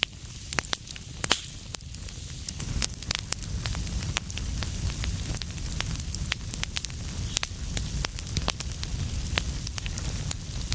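Wood fire crackling: frequent sharp pops and snaps, several a second, over a steady low rumble of burning.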